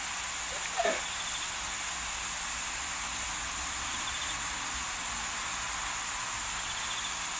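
Steady high-pitched insect chorus, like crickets, with faint short trills now and then. About a second in, a brief call falls in pitch and is the loudest sound.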